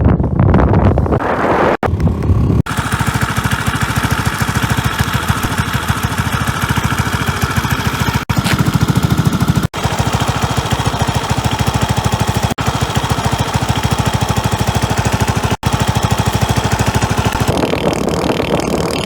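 Suzuki Skydrive 125 scooter's single-cylinder four-stroke engine running under way, a loud, steady sound with a rapid even pulsing, broken by a few short gaps. It dies away near the end.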